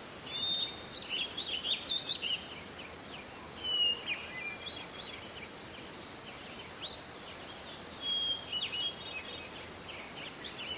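Songbirds singing, several short phrases of quick high chirps and whistles a few seconds apart, over a steady background hiss.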